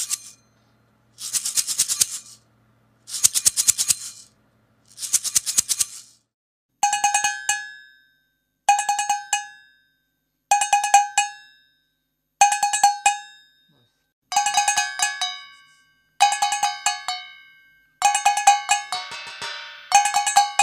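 Kitchen utensils played as percussion: first four bursts of rapid rattling strokes about two seconds apart, then short runs of ringing metallic strikes with a bell-like pitch, repeated every two seconds and coming closer together near the end.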